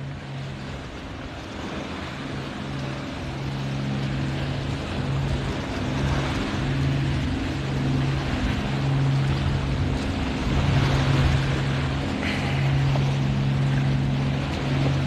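A motorboat engine running with a steady low drone, growing louder as the boat approaches, over the hiss of wind and surf.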